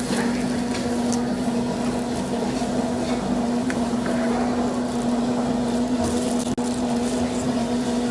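Steady mechanical hum with a constant low-pitched drone over a noisy background, cut by a split-second dropout about six and a half seconds in.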